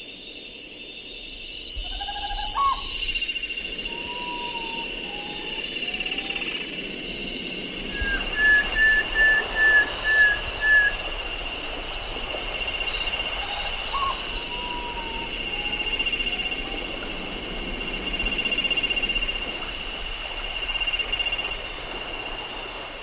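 Tropical rainforest ambience: a steady high insect drone with scattered short animal calls. About eight seconds in, a quick series of about seven short, even notes, the loudest sound, runs for roughly three seconds.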